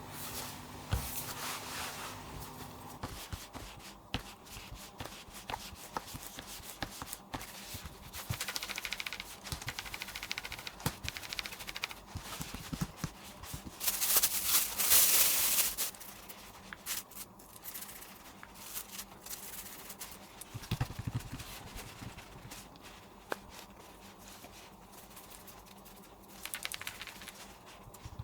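Scattered clicks and knocks of things being handled, with a louder rustle lasting about two seconds near the middle.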